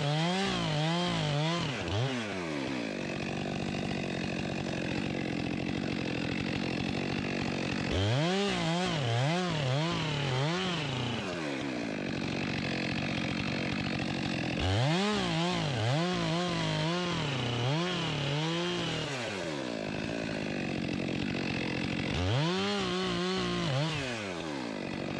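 Gas chainsaw bucking a downed log. The engine's pitch wobbles up and down in four stretches, with steadier cutting in between.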